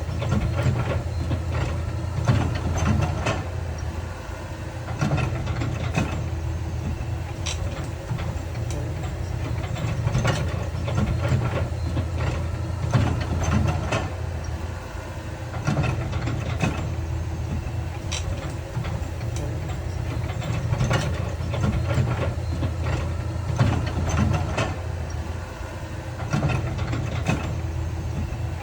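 Heavy diesel engine of earthmoving machinery running steadily under varying load, with frequent sharp knocks and clanks over it.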